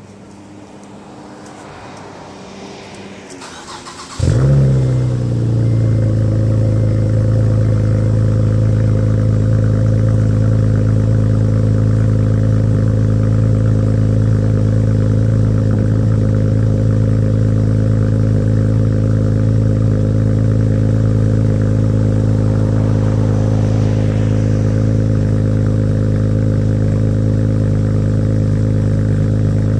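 Acura TL Type-S 3.5-litre V6 with an RV6 true dual exhaust and J-pipe cold-starting: the engine catches about four seconds in with a short flare of revs, then settles into a loud, steady high idle through the exhaust.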